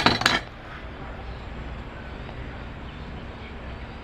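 A quick cluster of sharp knocks right at the start, then a steady low rumble.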